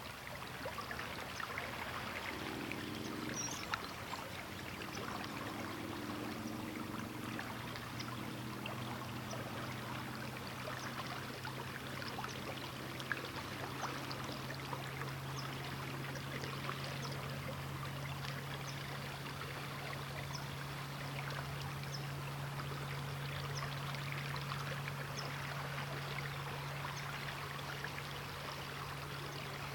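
River water flowing steadily with small splashes and gurgles. A low steady hum runs underneath from a few seconds in.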